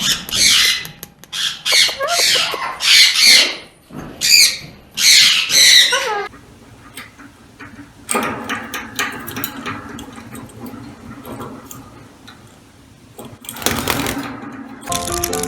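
A parrot squawking and screeching, a run of loud harsh calls that bend in pitch, for about the first six seconds. Then quieter small clicks and knocks, and a short loud rush of noise near the end.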